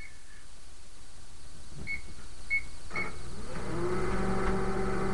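Microwave oven keypad beeping three times, then the oven starting up and running with a steady hum that builds over the last second or so: the start of a heating cycle.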